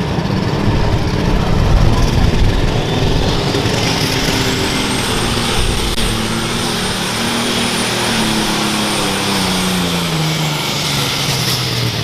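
An unlimited super stock pulling tractor's engine running hard under load down the track, with a high turbocharger whine. Over the second half the engine note falls steadily as the tractor slows.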